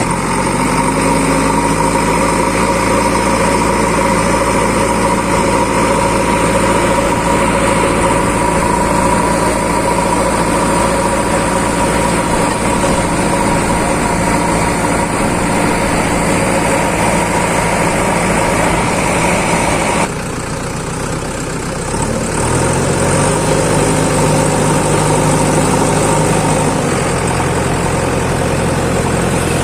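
Backhoe loader's diesel engine running steadily. It goes briefly quieter about two-thirds of the way through, then its pitch steps up, and it changes speed again near the end.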